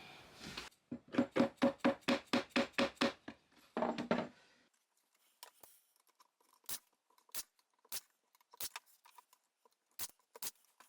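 Hammer driving a nail into plywood: a quick even run of about ten ringing strikes, a short burst, then scattered lighter taps.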